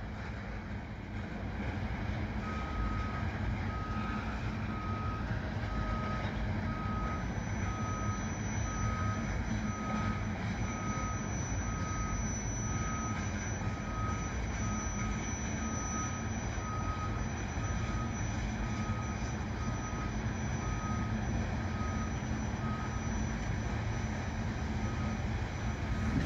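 Steady rumble of a freight train of loaded tank cars rolling past. From a couple of seconds in, a vehicle's reversing alarm beeps about once a second.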